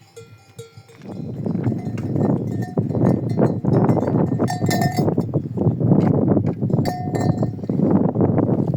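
Bells on a herd of goats clanking and jangling. A few bells ring clearly at first, and about a second in it becomes a dense clatter of many bells.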